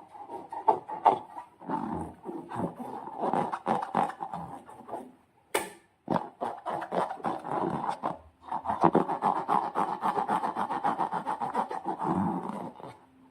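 Slime being squeezed and kneaded, making dense, rapid wet crackles and squelches in long bursts, with two short breaks.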